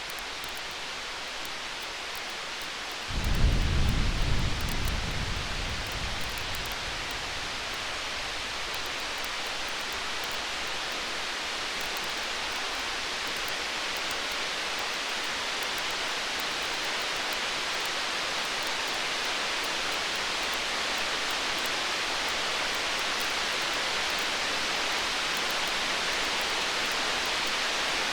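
Distant thunder: about three seconds in, a low roll rumbles up suddenly and fades away over a few seconds. Underneath runs a steady rain-like hiss with faint crackles of a campfire.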